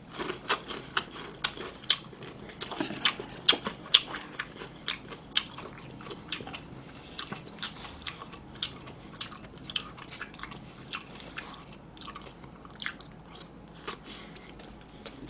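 Close-miked chewing of a mouthful of breaded fried food and rice, heard as a run of quick mouth clicks and crunches that come less often after about six seconds.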